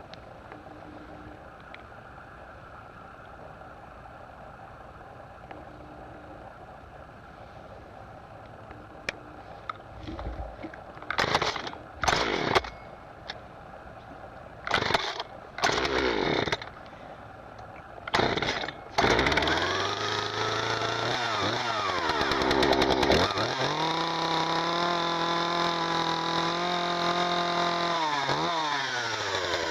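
Husqvarna 141 two-stroke chainsaw (40.2cc) starting: after a quiet stretch, a few short bursts as it fires briefly and dies, then about two-thirds of the way through it catches and keeps running, revved up and down.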